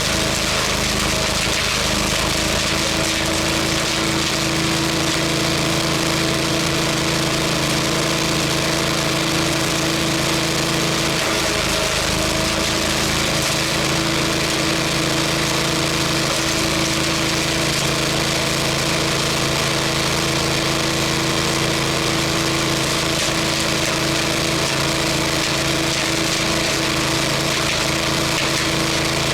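Engine-driven wood chipper running steadily at a constant speed.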